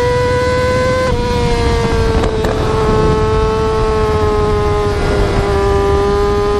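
Yamaha R6 sportbike engine held at high revs, a steady high-pitched wail over road noise; the pitch drops a little about a second in and eases slowly lower after that.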